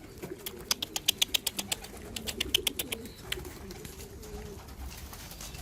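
Homing pigeons cooing low and wavering, with a quick run of sharp clicks, about five a second, for the first three seconds or so.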